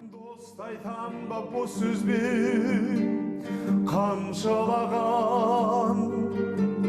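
Acoustic guitar accompanying a singer in a Kazakh song, the voice holding long notes with vibrato.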